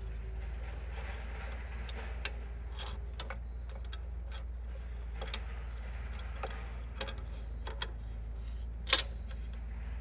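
Scattered light clicks and taps of clamps and wood being handled during a glue-up, with one sharper click about nine seconds in.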